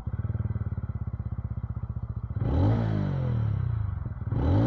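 TVS Ronin 225's single-cylinder engine starting silently, with no starter cranking heard, and settling into a fast-pulsing idle. It is revved twice, about halfway and again near the end, each rev rising then falling in pitch, with a bassy exhaust note.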